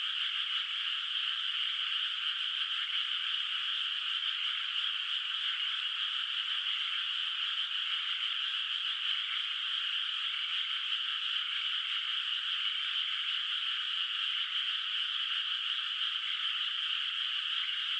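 A dense chorus of frogs calling in a flooded rice paddy: a steady, unbroken wall of many overlapping calls, high and thin, with no low sound under it.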